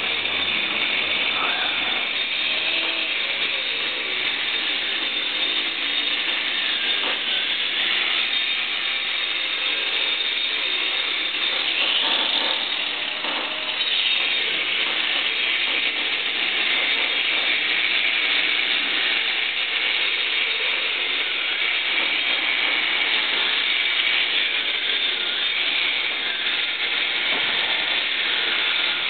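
Angle grinder raking out the mortar joints of a brick wall, running steadily under load, its pitch dipping and recovering briefly about halfway through.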